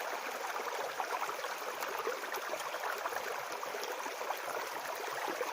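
Small forest brook babbling steadily: a constant rush of flowing water flecked with many quick little gurgles.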